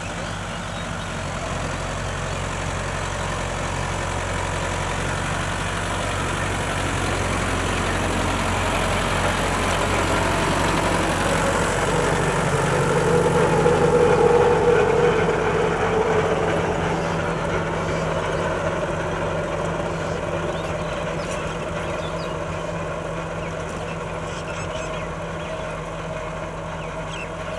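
Kubota tractor's engine running steadily, growing louder to a peak about halfway through and then easing off again.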